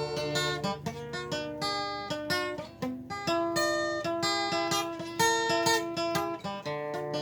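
Acoustic guitar playing an instrumental passage of picked notes and strummed chords.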